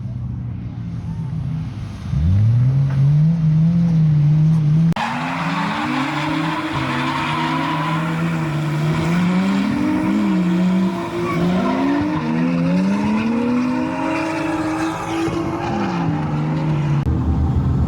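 Drift car's engine revving up and falling back again and again, with tyres squealing as the car slides. The sound changes abruptly about five seconds in and again near the end.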